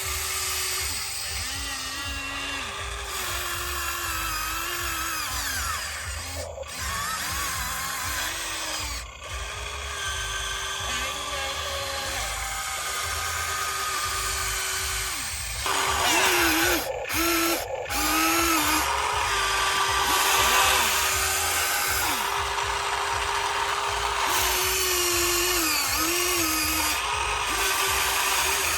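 Hydraulic RC excavator's electric pump motor whining as it digs, its pitch dipping and rising again and again as the controls load and unload it. It gets louder about halfway through, with a couple of brief cut-outs just after.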